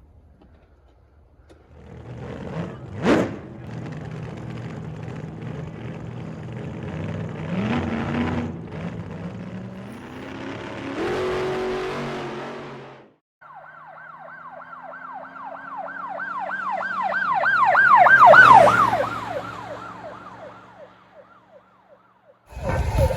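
Electronic police siren from a Kid Trax toy ride-on police car, a fast rising-and-falling wail that starts about halfway through, swells, then fades out. Before it comes several seconds of mixed rumbling noise with a short, sharp rising sound about three seconds in.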